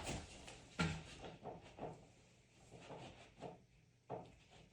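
A few faint, scattered knocks and light clunks, the loudest about a second in, with near silence between them.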